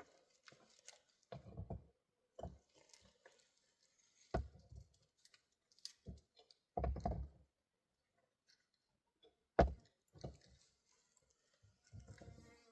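Irregular knocks and thuds of hard objects being handled, about seven in all with quiet gaps between; the sharpest is a single knock a little under ten seconds in.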